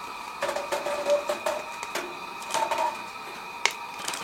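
Metal wood-stove chimney pipe being twisted by gloved hands to turn it out of the wind: short squeaks, scraping and sharp clicks, with one loud click near the end.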